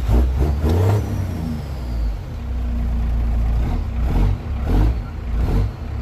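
Truck engine idling with a steady low hum, with several short knocks and bumps near the start and again about four to five and a half seconds in.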